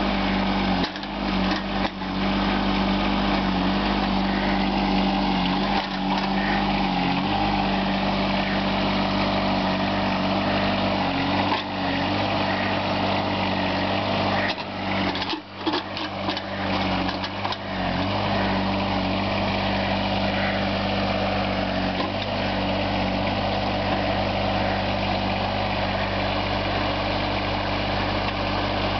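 Small John Deere tractor's engine running steadily, working to push over a large stump, with the note dipping briefly a few times, most deeply about halfway through.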